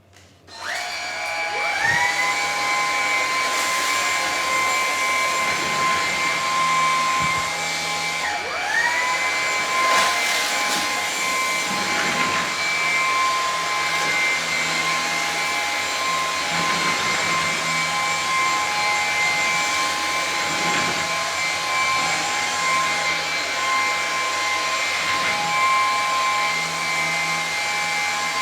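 Lupe Pure cordless stick vacuum's motor spinning up with a rising whine just after the start, then running with a steady high whine while vacuuming a hard floor. About eight seconds in the whine drops and climbs back, and a few short clicks come through over the motor.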